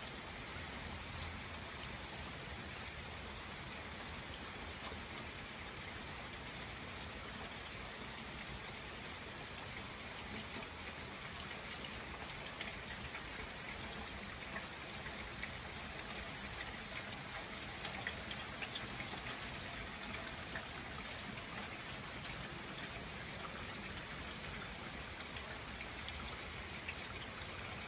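Steady rain falling: a continuous even hiss with scattered ticks of single drops.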